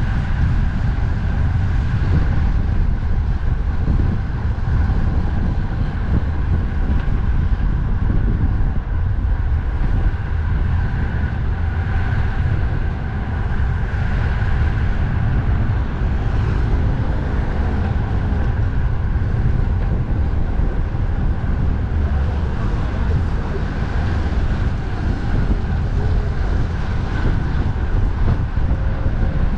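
Strong wind buffeting the microphone of a moving bicycle, a steady low rumble, with road traffic noise underneath.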